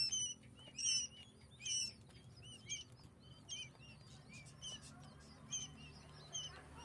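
Flock of 22-day-old quail chicks peeping: short high chirps repeating irregularly, several overlapping, with the loudest in the first two seconds.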